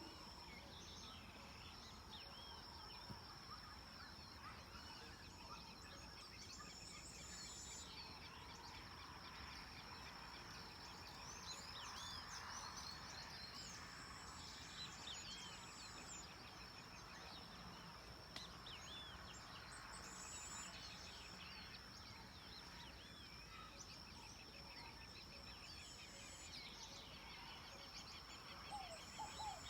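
Faint outdoor ambience of several small birds chirping and trilling, with short rising-and-falling chirps scattered throughout over a steady thin high tone.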